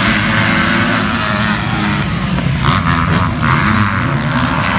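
Motocross motorcycle engines running and revving as the bikes race on a dirt track, a continuous engine din with a few short louder revs about midway.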